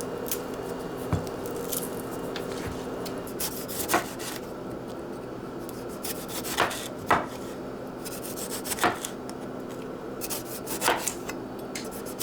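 A knife on a cutting board: a handful of irregular knocks and scrapes, over a steady low hum.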